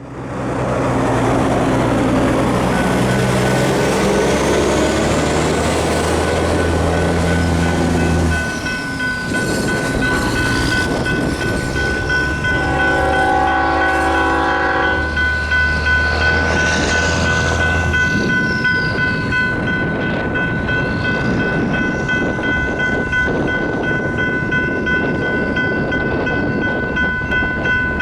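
Approaching freight train led by GE diesel locomotives: a locomotive horn blowing, with its loudest blast about halfway through, over the rumble of engines and wheels. Electronic crossing bells ring steadily from about three seconds in.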